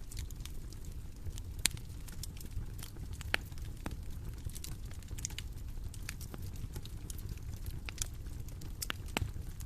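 Bonfire burning: irregular sharp crackles and pops of burning wood over a steady low rumble of the flames. The strongest pops come about a second and a half in and again a little after three seconds.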